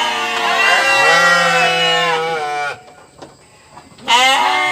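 A goat bleating: long, wavering bleats, then a pause of over a second, then another bleat begins near the end.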